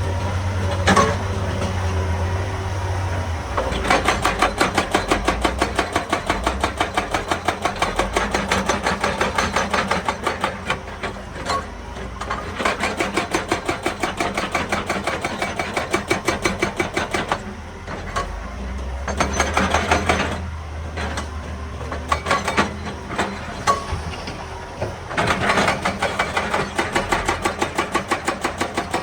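Hydraulic rock breaker on a Hitachi EX200 excavator hammering rock in long runs of rapid, evenly spaced blows, with the excavator's diesel engine running underneath. The hammering starts about four seconds in after a low engine hum and stops briefly several times before starting again.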